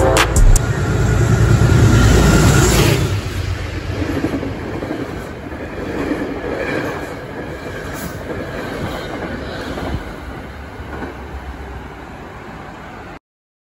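Electric commuter train passing through the station at speed: a loud rush and rumble of wheels on rail that peaks about two to three seconds in, then fades steadily as the train moves away, with a couple of sharp clacks from the wheels along the way.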